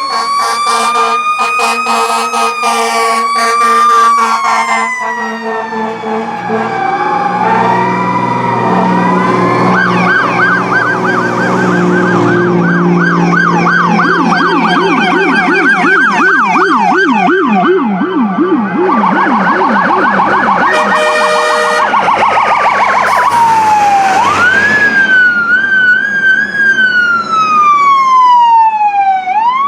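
Fire apparatus sirens sounding together in a parade: slow rising-and-falling wails, a fast yelp through the middle, and long sweeps climbing and falling near the end.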